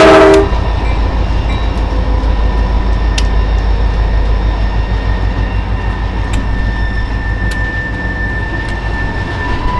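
Freight train led by a Wheeling and Lake Erie EMD SD40T-2 diesel locomotive. Its horn cuts off about half a second in, leaving the steady, pulsing deep rumble of the locomotive and the rolling train. A few sharp clicks from the wheels run through it.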